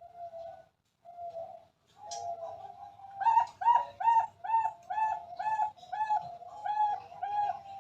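Zebra dove (perkutut) cooing: a few soft coos, then from about three seconds in a quick, even run of short clipped notes, about two a second.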